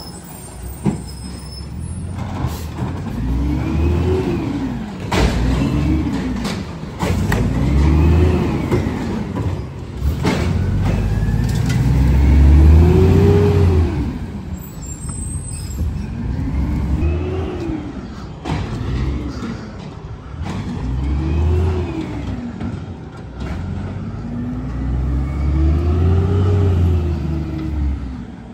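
Garbage truck's engine revving up and dropping back, over and over every couple of seconds, with scattered knocks and clanks in between.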